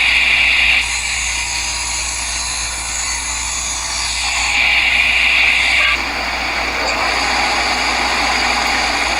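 Table saw ripping a wooden board lengthwise to 1 1/16 inch wide, the blade's steady whine and cutting noise rising and falling in loudness as the board is fed through.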